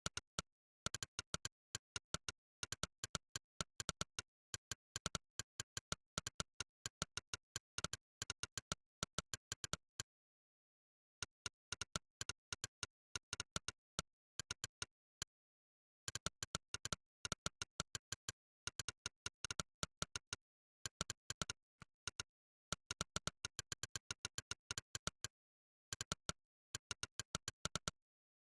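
Monkeytype's "click" keypress sound effect, one short click per keystroke, in quick runs of several clicks a second while typing. The runs break off for a second or so about a third of the way through, again just past halfway, and a few times near the end.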